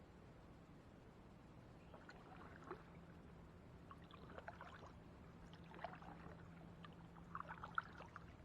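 Quiet water sounds around a kayak: faint scattered drips and small laps against the hull from about two seconds in, over a low steady hum.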